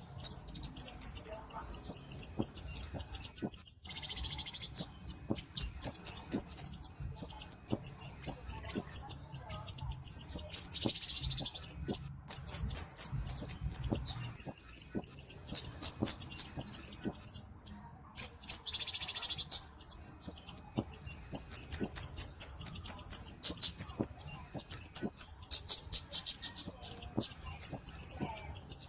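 Flowerpecker (burung cabe) calling: long runs of very high, thin, rapid chirps and trills. Short hissy buzzes come about 4, 11 and 19 seconds in.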